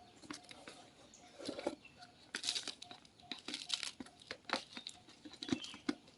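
Sand being tipped and pressed into a plant pot by hand, giving irregular gritty crunches and rustles.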